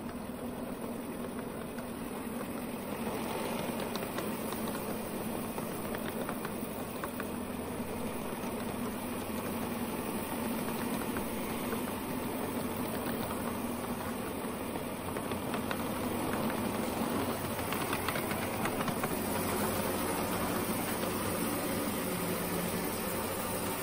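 Small 7.5-inch gauge live steam locomotive with a propane-fired vertical boiler and vertical cylinders running at speed. Its quick exhaust beats run together into a steady engine sound, more like a gasoline engine than a steam engine, growing a little louder in the second half.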